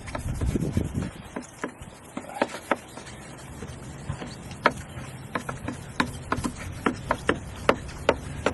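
A sanding pad rubbing back and forth over a plastic headlight lens in the final, finest-grit wet-sanding pass, which takes out the last small scratches. The rubbing is steady, with frequent sharp ticks at irregular intervals.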